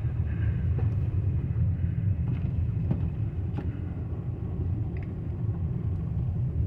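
Steady low rumble of a Toyota Camry driving on a fresh-snow-covered road, its engine and tyres heard from inside the cabin, with a few faint ticks.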